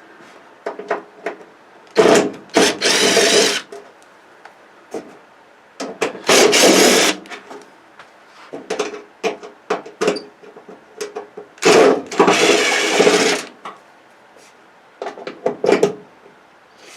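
Cordless drill/driver running in short runs, about three of a second or two each plus a shorter one near the end, backing screws out of a flat-screen TV's back cover, with light clicks and knocks of handling between runs.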